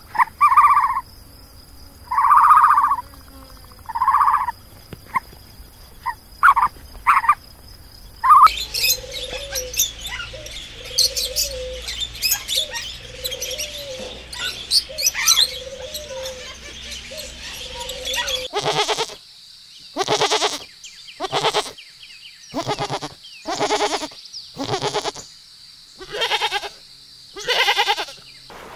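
Ducks quacking in short calls about every second and a half. Then, from about eight seconds in, budgerigars chirp and chatter busily. From about eighteen seconds in, a goat bleats in a string of short, loud bleats.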